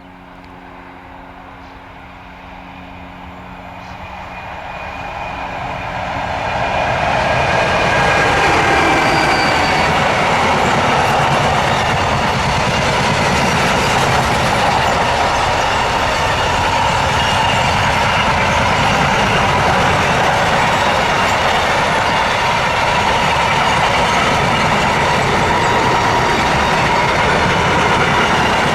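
A train approaches, growing louder over the first several seconds, then runs past close by for the rest of the time with steady rolling noise and wheel clatter, and a faint wheel squeal.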